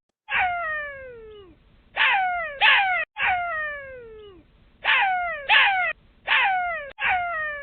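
Jackal calling: a series of about eight high calls, each sliding steeply down in pitch, some following each other in quick pairs.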